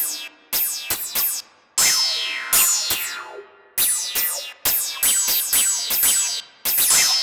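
Electronic music: a run of sharp synthesizer hits in an uneven rhythm, each a bright tone sweeping steeply down in pitch as it fades.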